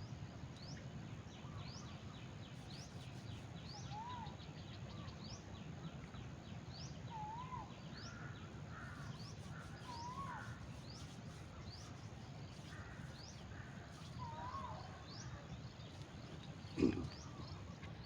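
Birds calling: a short, high, rising note repeated about once a second, and a short warbled whistle every few seconds, over a low steady background rumble. A single sharp thump about seventeen seconds in is the loudest sound.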